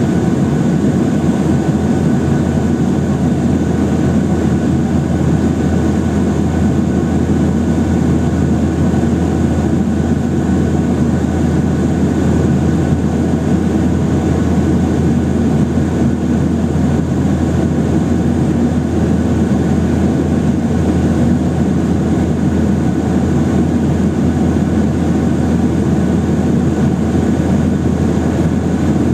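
Boeing 737-800's CFM56 jet engines running steadily, heard inside the passenger cabin as a loud, even rumble.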